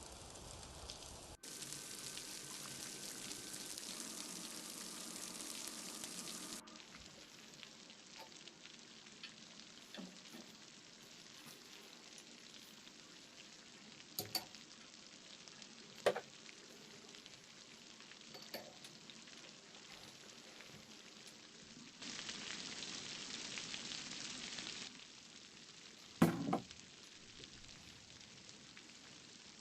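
Food sizzling as it fries in a pan, the sizzle cutting in and out abruptly louder twice, with a few sharp clinks and knocks of a utensil against the pan as it is stirred.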